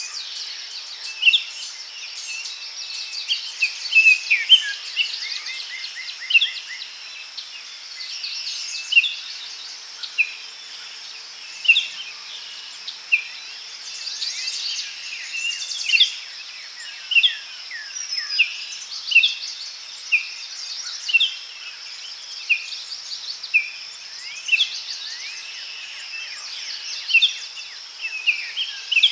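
Daytime forest ambience: many birds chirping and whistling in short, frequent calls over a steady high-pitched drone of insects.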